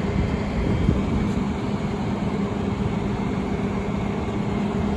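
A vehicle engine running steadily, a constant low hum over a rumble of outdoor noise.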